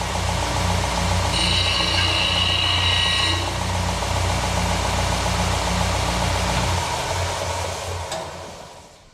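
Electric deburring machine running with a steady motor hum. About a second and a half in, a steel hook is pressed to it, giving a high grinding whine for about two seconds. Near the end the motor is switched off and winds down.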